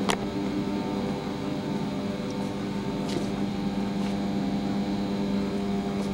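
Steady machine hum with a low drone and several steady higher tones, broken by two sharp clicks, one at the start and one about three seconds in.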